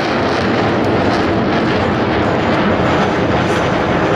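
Airplane engine noise from an air show aircraft, a loud, steady rushing drone with no break.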